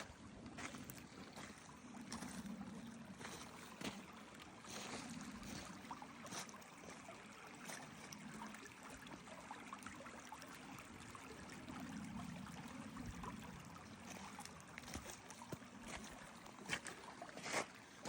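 Stream water running steadily, with scattered light clicks and knocks and two sharper knocks near the end.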